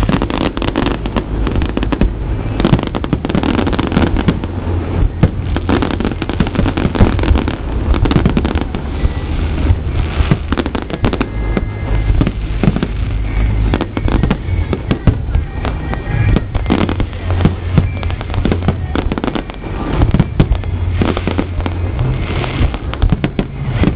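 Aerial fireworks in a continuous barrage: many overlapping bangs and crackles with a heavy low rumble, loud throughout.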